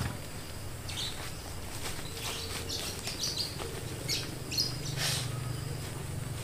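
Small birds chirping, scattered short calls, over a steady low hum.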